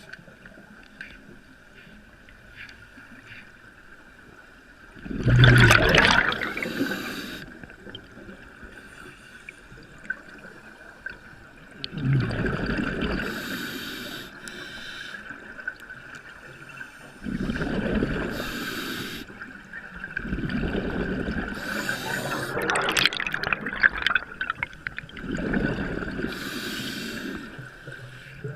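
Water splashing and sloshing against a boat in surges every few seconds, over a steady high hum.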